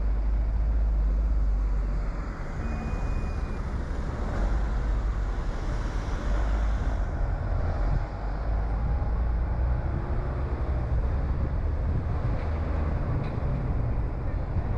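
Steady low rumble of a car being driven, with engine and tyre noise on the road.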